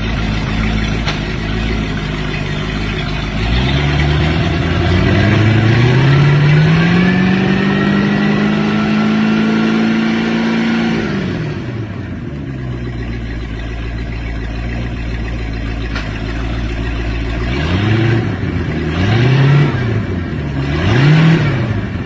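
Boat engine idling, revved up and held at speed for several seconds, then dropped back to idle, followed by three quick blips of the throttle near the end.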